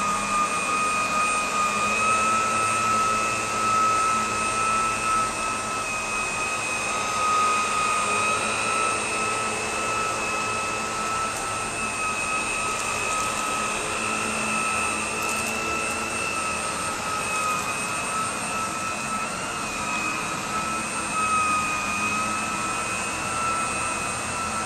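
Electrolux Classic canister vacuum cleaner running steadily, a loud even rush of air with a high, constant whine.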